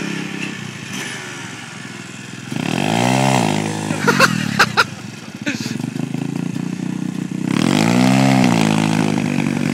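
Dirt bike engine running and revved twice, its pitch climbing and falling back each time, a few seconds apart.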